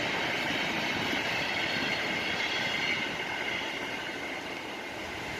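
Freight train cars rolling past on the rails: a steady rushing rail noise with thin high tones running over it. It gets somewhat quieter over the last couple of seconds.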